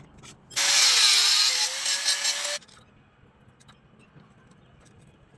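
A power tool runs for about two seconds and stops, its motor pitch dipping slightly partway through.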